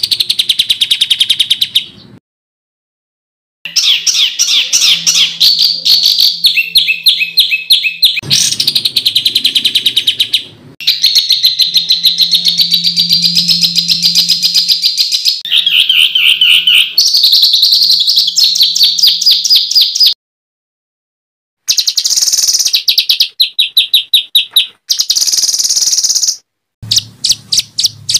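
Songbird masteran recording: loud, harsh, fast-repeated chattering notes and rattling trills in quick series. It is cut into clips, with dead silence for about a second and a half twice, a few seconds in and about two-thirds of the way through.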